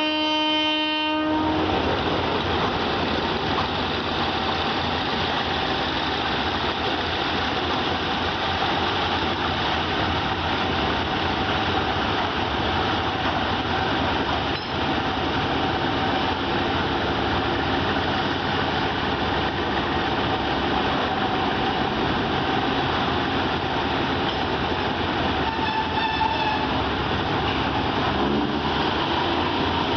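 Train horn sounding one long blast that cuts off about a second and a half in, then the steady noise of the train running along the track.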